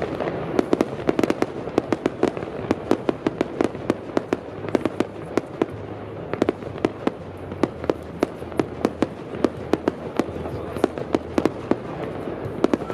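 A fireworks display going off: a rapid, irregular string of sharp bangs and cracks, several a second, without a break.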